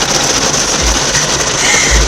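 Automatic car wash spraying and scrubbing the car, heard from inside the cabin: a loud steady hiss with two low thumps about a second apart.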